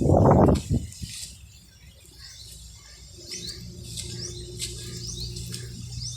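Small birds chirping: short rising chirps repeating about twice a second in the second half, over a low steady hum. A brief loud rumble opens it, typical of wind buffeting the microphone.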